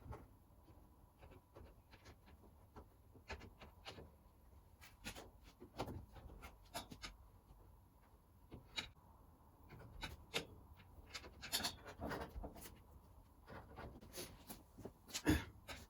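Faint, irregular rubbing, scraping and light clicks of hand work, with a few sharper knocks in the second half.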